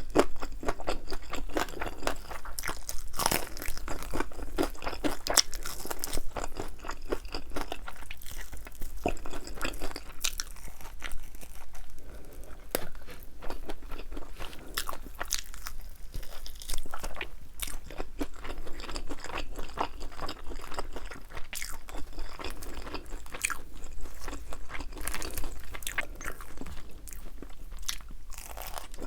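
Close-miked crunching and chewing of crispy fried chicken wings with a thin, crisp batter, as bites crackle irregularly throughout.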